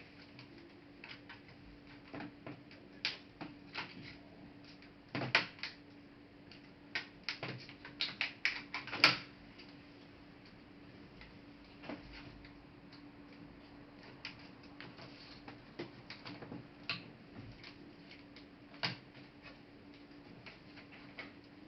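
Irregular clicks and taps of plastic and small metal parts being handled while a Toshiba Satellite A300 laptop is taken apart, busiest and loudest in the middle, over a faint steady hum.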